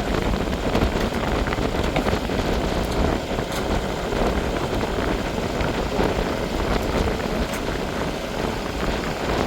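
Steady rush of wind and water aboard a sailboat moving through choppy bay water, with a low steady drone underneath and scattered light spray ticks.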